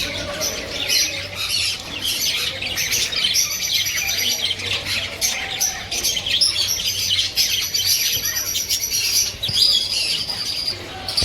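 Many caged birds chirping and tweeting at once: a dense, continuous chorus of overlapping high chirps.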